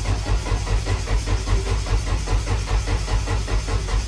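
Nissan KA24DET turbocharged four-cylinder engine being cranked on its starter for its first start, turning over with an even chug of about five beats a second without catching.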